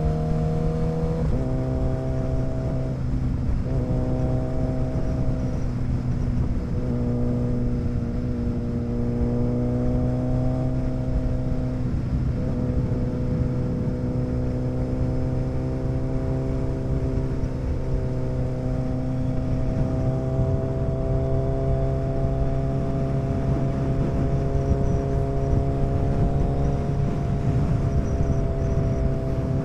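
Motorcycle engine running under way while riding. Its note drops in pitch once about a second in, then holds a steady cruising pitch with small rises and dips.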